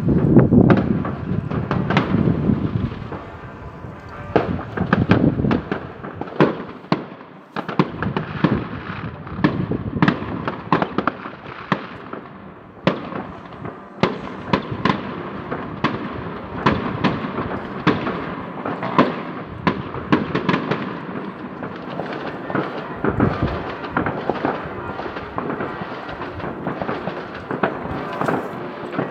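New Year's Eve fireworks: a continuous barrage of cracks, bangs and crackling from many rockets and firecrackers going off at once, with a heavy boom at the start.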